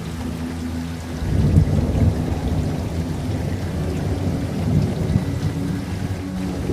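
Steady rain falling, with a long low rumble of thunder that swells about a second in and rolls on for several seconds before easing off.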